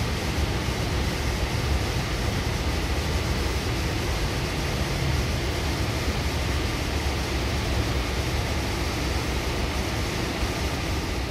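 Steady interior rumble and hiss of a Goninan K-set double-deck electric train car running on the line, heard inside the upper-deck saloon.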